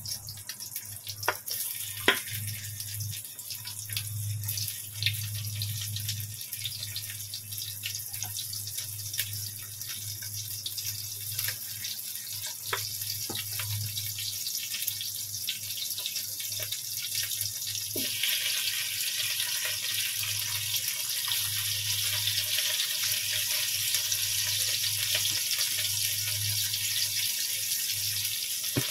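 Green chilies stuffed with minced fish frying in hot oil in a wok: a steady sizzle, with a few sharp taps in the first half as the pieces go in. The sizzle grows louder and fuller about eighteen seconds in.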